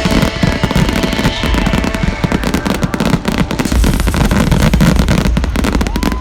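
Fireworks display: a dense, rapid string of crackles and bangs over a continuous low booming rumble.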